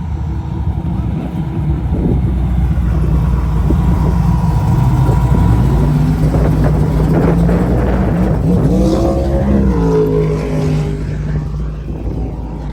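Ford Mustang drag car's engine at full throttle down the strip, its pitch climbing for several seconds and then dropping near the end as the driver lifts off.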